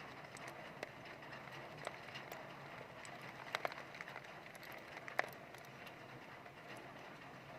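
Heavy rain falling steadily, with scattered sharp taps of drops striking a hard surface. There is a quick pair of louder taps about three and a half seconds in and another just past five seconds.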